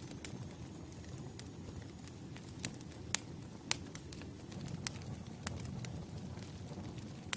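Campfire crackling: a low, steady rush of burning wood with scattered sharp pops, about ten over several seconds.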